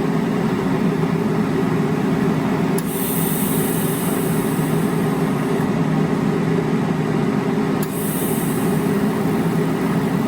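Steady hum of a TIG welder's running machine, with two stretches of high shielding-gas hiss from the torch, each starting with a click, about three seconds in and again near the end. The foot pedal is opening the gas valve while the flow is set to about 15 CFH.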